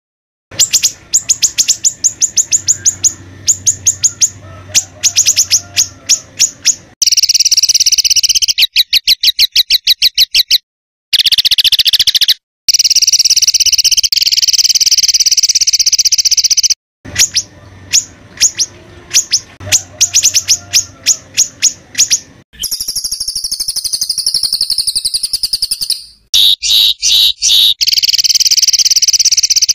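A songbird singing harsh, rapid 'tembakan' (shooting) phrases: fast strings of sharp high notes alternating with sustained buzzy trills. The song comes in edited segments that break off abruptly, with the same opening phrases repeating later.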